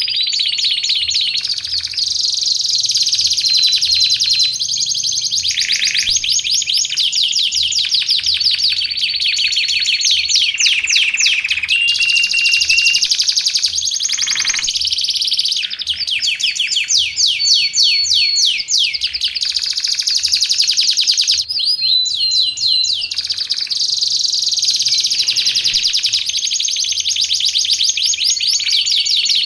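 Domestic canary singing continuously: long rapid trills and rolling tours, broken by short held whistled notes.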